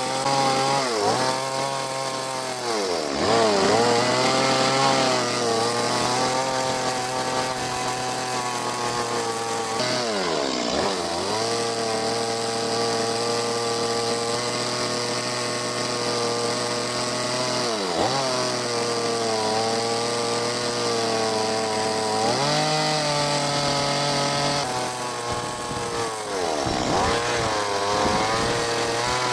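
Chainsaw engine running steadily at high revs while carving wood, its pitch dipping and climbing back several times.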